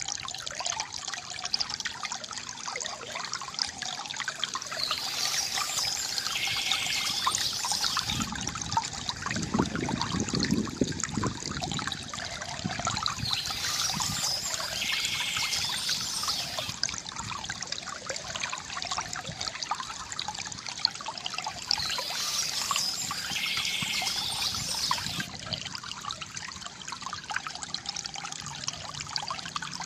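River water gurgling and trickling steadily, with a deeper surge about a third of the way in. Bursts of high bird chirping come back about every eight or nine seconds.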